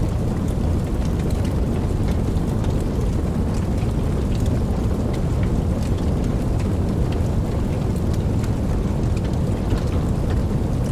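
Steady rainfall with a deep, constant low rumble underneath and scattered ticks of single drops.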